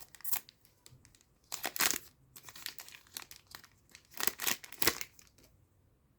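Foil trading-card booster pack being torn open and crinkled by hand in irregular crackling bursts, dying away near the end.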